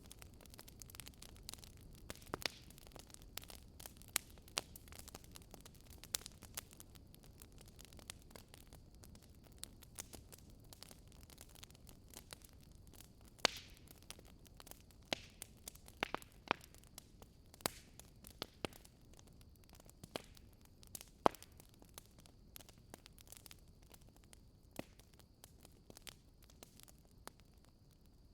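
Wood fire burning with a low steady hiss and irregular sharp crackles and pops, a few much louder than the rest.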